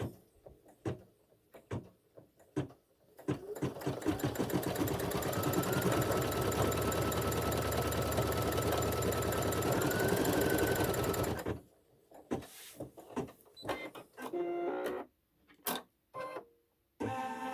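Embroidery machine stitching out a small eyebrow detail: a few scattered clicks, then the machine running at a fast, even stitch rhythm for about eight seconds before stopping abruptly, followed by more scattered clicks.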